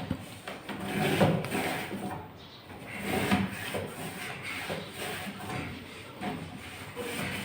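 A wet cloth rubbing and wiping a refrigerator's inside surfaces in irregular strokes, with detergent water.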